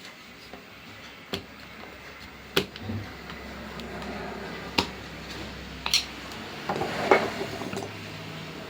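Scattered sharp clicks and knocks of tools and angle grinder parts being handled during a repair, about five of them a second or more apart.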